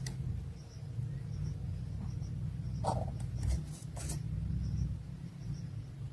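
Faint nest sounds: a few short rustles and clicks over a steady low rumble, with soft, high peeps repeating faintly throughout.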